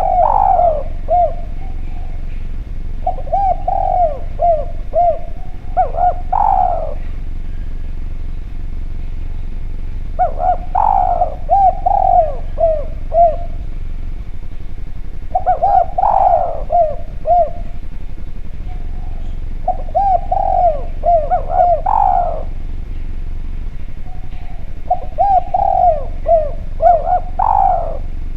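A spotted dove (derkuku) cooing in repeated phrases, about six of them, each a quick run of short coos ending in a louder note that rises higher, with a gap of a second or two between phrases.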